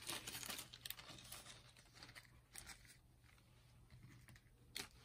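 Faint rustling and light clicks of spare rubber drive belts being handled and sorted by hand, busiest at first, with one sharp click near the end.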